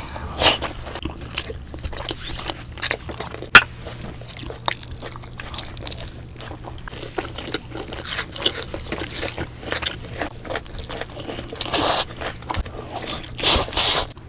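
Close-miked eating sounds: crunchy bites and chewing, a run of crackling clicks with a few sharper crunches.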